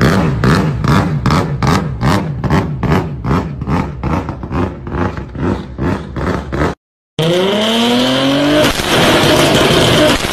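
A modified drift car's engine revved in quick repeated blips, about three a second. After a brief cut of silence, another tuned car's engine revs up and back down with a steady high whine above it.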